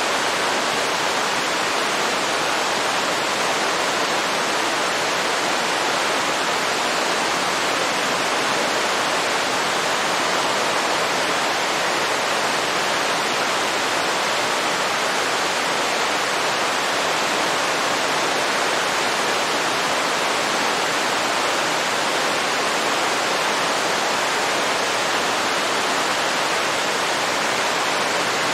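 Waterfall's rushing water, a steady, unbroken roar of falling water.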